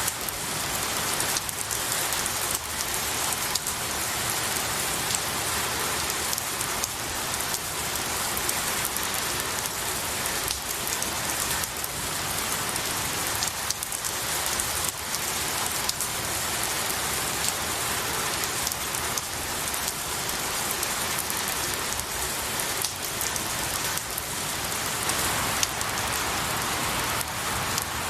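Steady rain pattering on pine needles and trees, a dense even hiss with many individual drops ticking through it.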